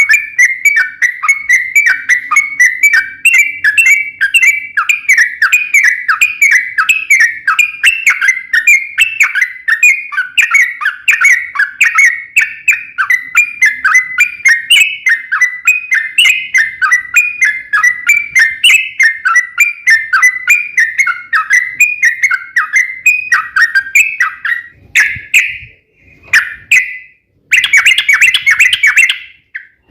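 Yellow-vented bulbul (trucukan) singing a long, fast song of quick repeated notes, about four or five a second. Near the end it breaks off briefly twice, then resumes in a denser rapid run.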